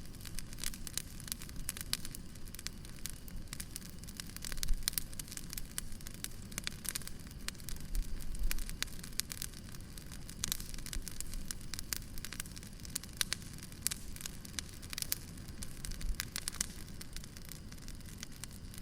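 Wood fire crackling, with irregular sharp snaps and a few louder pops over a low, steady rumble of burning.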